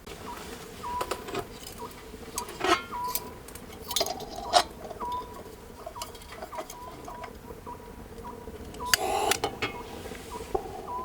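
Clinks, taps and knocks of dishes, pots and utensils being handled, irregular and scattered, with a short scraping or rustling burst about nine seconds in.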